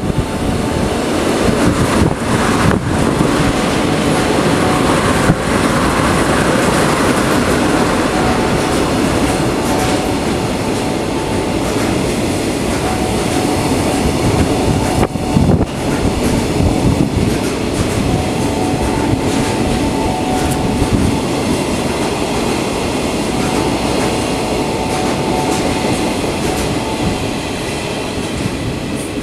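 Two freight trains hauled by DD51 diesel locomotives passing each other on the tracks either side of the platform. Container and tank wagons roll by steadily, their wheels clattering over the rail joints, with a thin wheel squeal that comes and goes several times.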